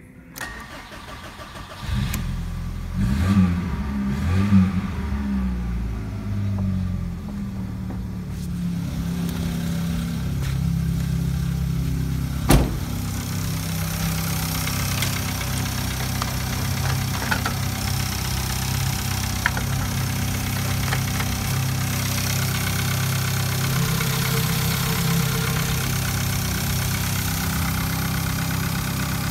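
VW Golf 3's 1.6-litre AEA four-cylinder petrol engine starting about two seconds in. It revs a few times and then settles into a steady idle. There is a single sharp click about twelve seconds in.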